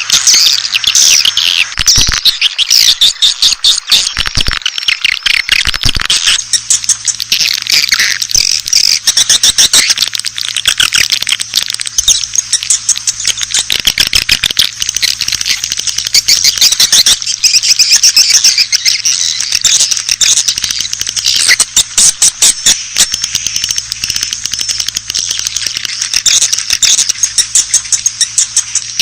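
A dense, continuous chorus of swiftlets twittering in rapid high chirps. It is a swiftlet lure call, the sound played to draw swiftlets to roost and nest.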